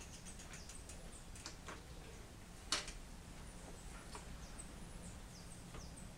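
Faint chirping of small birds: many short, high, downward-falling notes at irregular intervals over a low steady background rumble, with a few scattered sharp clicks, the loudest close to three seconds in.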